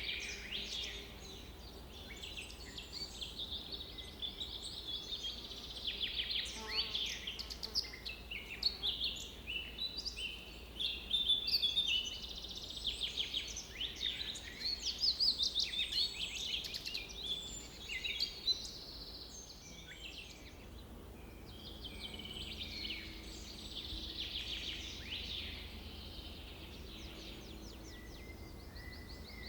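Several birds singing and calling at once: a busy mix of chirps, trills and quick rising and falling whistles that thins out about two-thirds of the way through, over a faint steady low rumble.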